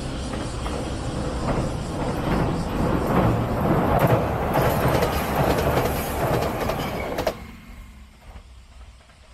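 Train crossing a steel girder railway bridge, wheels clattering over the rail joints. The rumble builds as it comes close, then falls away sharply just after seven seconds as the last car clears.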